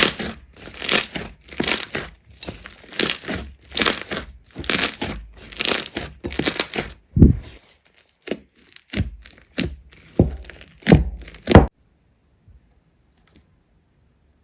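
Slime being worked by hand: a run of crackling, tearing bursts, one or two a second, that stop abruptly near the end.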